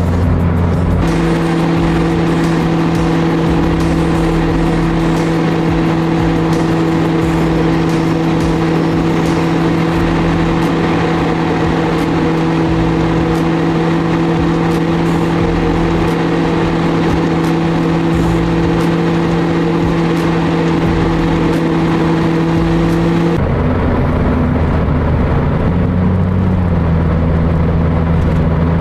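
Car running down the road, heard from inside the cabin: steady engine and road noise with a strong, even hum that cuts off abruptly about 23 seconds in.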